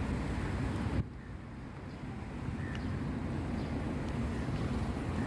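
Steady low engine rumble with wind noise on the microphone. About a second in, the level drops abruptly, as at an edit cut, then slowly builds back.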